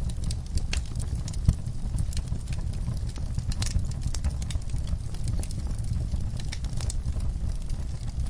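Wood fire crackling: a low steady rumble of flames with irregular sharp snaps and pops, several a second, and one louder snap about a second and a half in.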